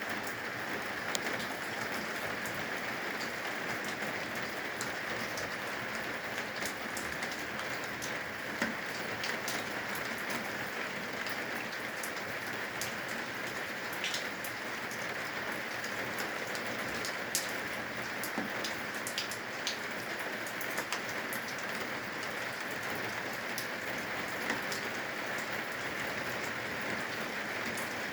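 Steady rain falling on the eaves, a continuous hiss with scattered sharp drips and drops ticking throughout.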